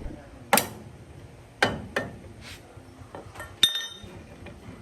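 Metal tools and engine parts clinking and knocking as they are handled during engine repair work: several sharp clinks, the loudest one near the end ringing briefly.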